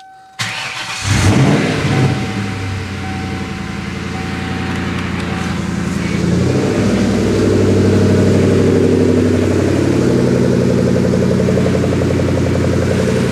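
1996 Ford Mustang SVT Cobra's 4.6-litre DOHC V8 with its mufflers deleted, cranking and catching. It flares up about a second in, then settles into a loud, steady idle through the straight pipes.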